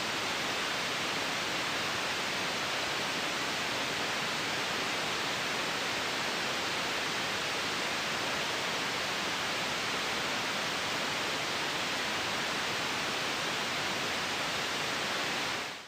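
Steady generated white noise, an even hiss with no rhythm or tones, fading out quickly at the very end.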